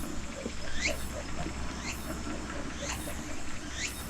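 A bird calling: a high chirp that sweeps downward, repeated about once a second, over a steady low hum.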